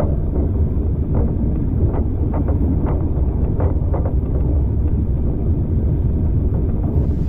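Railway carriage running along the track: a steady low rumble with a scatter of short sharp clicks between about one and four seconds in.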